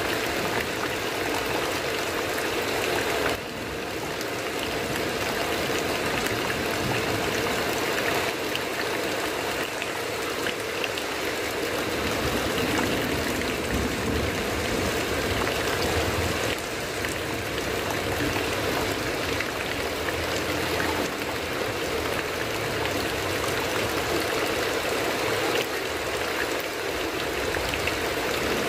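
Heavy rain falling steadily, an even dense hiss of drops, with a brief dip in level about three seconds in.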